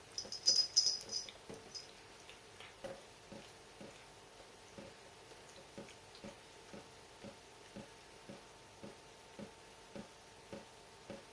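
Water dripping from a tap, regular drops about two a second, each a short plop. In the first second or so there is a brief, louder flurry of higher-pitched sounds, likely the cat batting at the drip.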